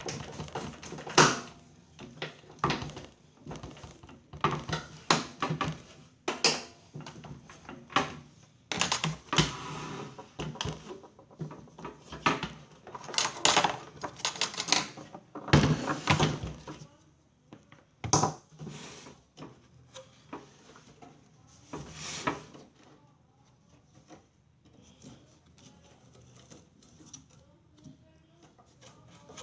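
Irregular clicks, knocks and clatter of hard parts being handled, dense for about twenty seconds, then thinning to a few faint ticks.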